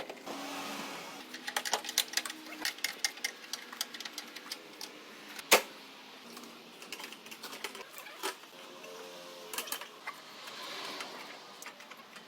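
An irregular run of light clicks and taps, with one sharp knock about halfway through and short squeaks near the start and again later on.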